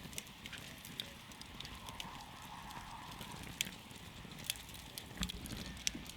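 Wood campfire crackling: irregular sharp pops and snaps over a low steady hiss, with a soft hiss swelling briefly in the middle.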